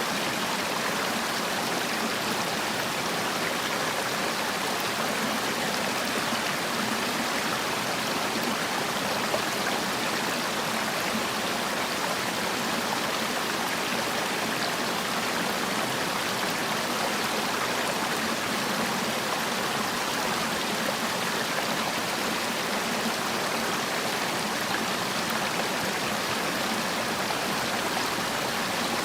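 Mountain stream water rushing and splashing over rocks, a steady, even flow.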